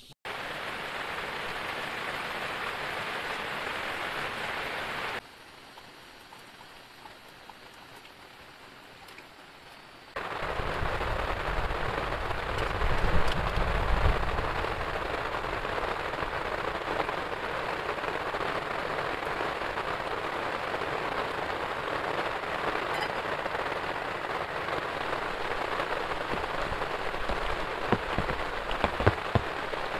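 Heavy rain pouring down in a steady hiss. It drops to a softer level for about five seconds and then comes back loud, with a low rumble swelling briefly after the return and a few sharp drip-like ticks near the end.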